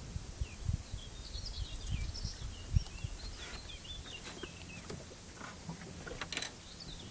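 A songbird singing a run of quick, varied high chirps and warbles. Underneath is a low rumble with scattered thumps on the microphone, and one louder thump about three seconds in.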